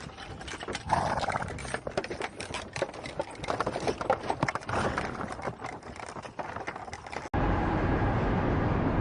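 Rapid, irregular clicking and knocking from an animal, then an abrupt cut about seven seconds in to a steady rumbling noise.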